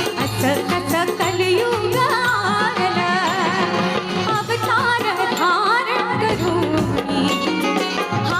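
Konkan jakhadi folk song: a shahir singing in a wavering, ornamented voice over rhythmic drum beats and a steady low drone.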